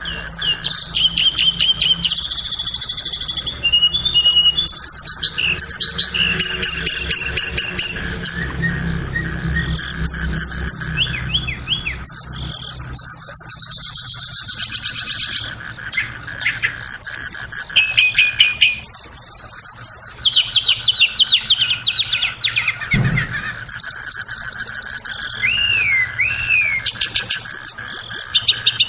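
Recorded song of tledekan (blue flycatchers, the lure and master call for tledekan bakau and gunung). It is a continuous run of clear whistled phrases, rapid trills and twittering, with rising and falling notes.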